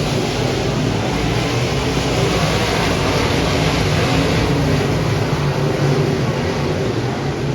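Dirt modified race car engine running steadily at speed, with a broad rush of noise over it.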